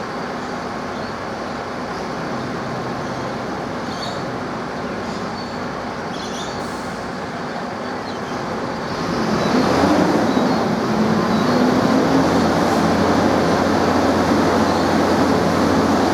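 A cane train running. It gets louder about nine seconds in, when a wavering hum rises over the steady running noise.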